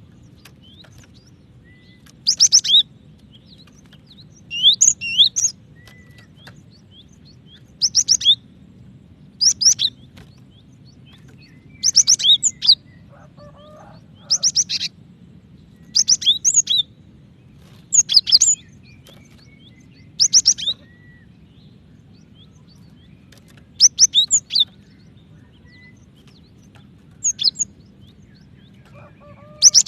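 Female cinereous tit calling: short bursts of rapid, high chirping notes, about one burst every two to three seconds, over a faint steady low hum.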